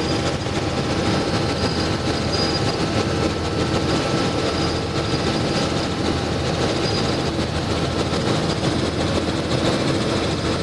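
Helicopter running steadily: a loud, even noise with a few faint steady whining tones through it.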